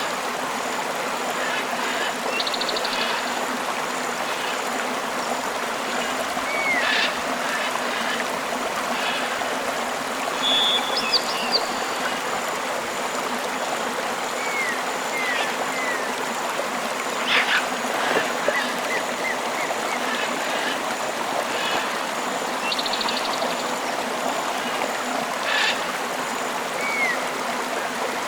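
Steady rushing of a tropical river, with scattered bird and other wildlife calls over it: short curved whistles, a few rapid buzzy trills and brief chirps.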